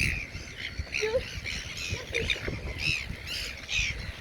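A flock of birds squawking, many short harsh calls overlapping several times a second.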